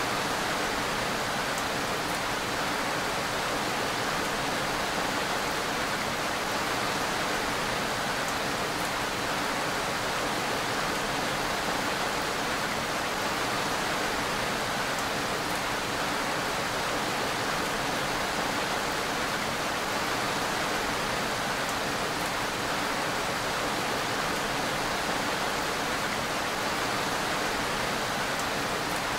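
Steady rainfall: an even, unchanging hiss of rain.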